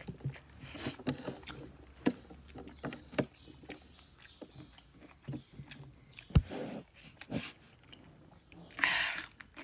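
Close-up eating sounds: chewing, lip smacks and wet mouth clicks, with a sharp click about six seconds in. Near the end comes a crisp crunch as a slice of cucumber is bitten.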